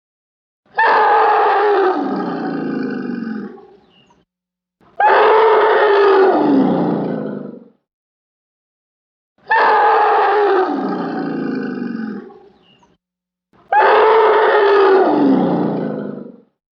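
A large animal roaring four times: long drawn-out calls, each sliding down in pitch, the same call played over and over.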